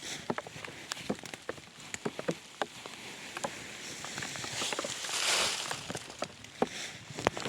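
Irregular patter of raindrops, scattered sharp ticks at uneven intervals, with a brief swell of hiss about five seconds in.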